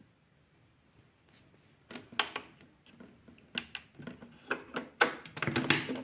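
Hard plastic clicking and rattling on a toy washing machine, a quick run of sharp clicks starting about two seconds in, with no sound from its broken speaker.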